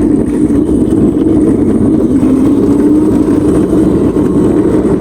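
Small ride-on vehicle's motor running steadily at a constant pitch while being driven.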